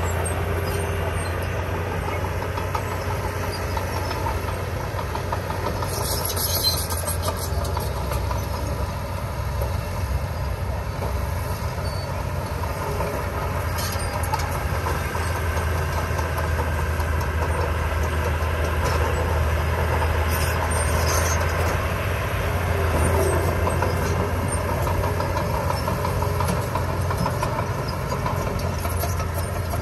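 Heavy earthmoving machinery's diesel engine running steadily, with a few short metallic clanks now and then.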